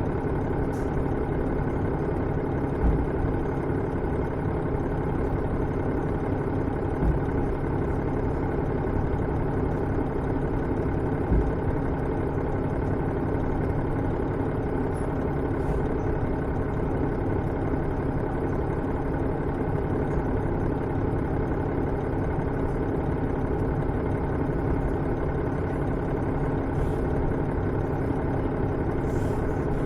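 Diesel engine (Cummins DMF14HZ) of a KiHa 110-series railcar idling steadily while the train stands at the terminus, with a few brief low thumps in the first dozen seconds.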